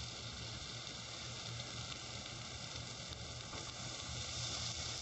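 Mixed vegetables and sliced sausage frying in a little oil in a pot, a soft steady sizzle.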